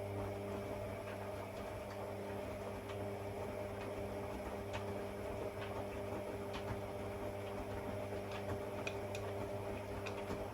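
AEG Lavamat washing machine running with a steady electric hum and light scattered ticks, dying away near the end.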